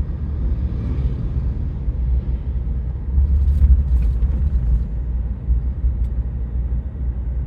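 Steady low rumble of a vehicle being driven, with road and engine noise and a few faint ticks about three to four seconds in.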